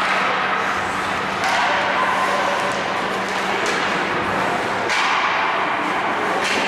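Ice hockey play on the rink: a steady din of rink noise broken by about four sharp knocks of sticks and puck, over a faint constant hum.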